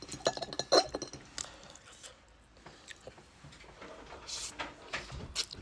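A person eating spicy instant noodles: wet chewing and slurping with irregular sharp clicks, busiest in the first second.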